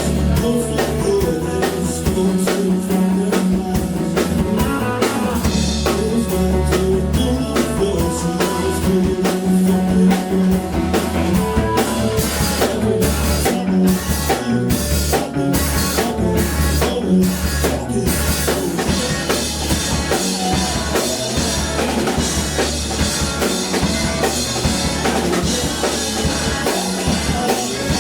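A live rock band playing, with drum kit, electric guitar and bass. About halfway through, the band plays a run of short, clipped hits with gaps between them, then comes back in full with ringing cymbals.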